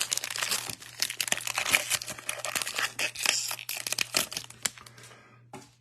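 The wrapper of a 2023 Bowman baseball card pack being torn open and crinkled, with dense crackling that thins out and stops near the end.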